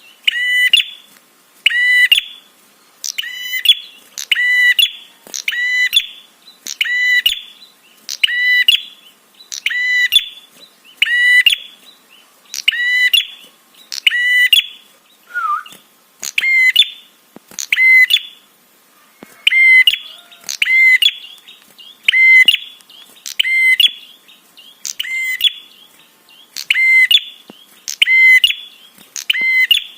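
Prenjak (bar-winged prinia) giving its 'trapi' call: short, sharp, high chips repeated about once a second, with a brief break about halfway through. This is the call used to provoke and lure other prenjak.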